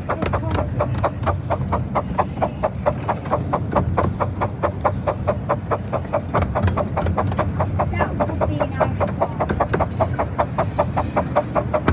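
Miniature steam locomotive of the 15-inch gauge Romney, Hythe and Dymchurch Railway running at speed: a steady, quick chuffing of about five exhaust beats a second over the continuous rumble of the moving train.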